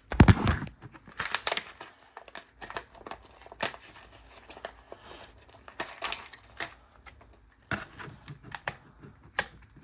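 Plastic packaging crinkling and crackling in irregular bursts as it is handled and pulled at while being opened, with the loudest rustle near the start.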